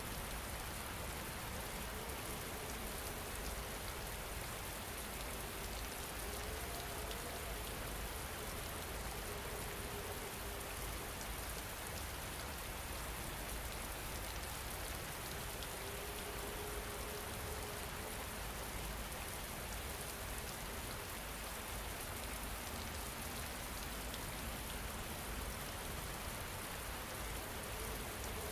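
Steady rain falling on a surface, an even hiss without breaks. Faint held tones drift in twice underneath.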